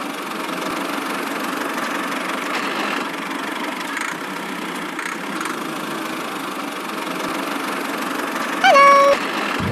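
Small motor of a miniature DIY tractor running steadily. Near the end comes a brief high-pitched voiced exclamation.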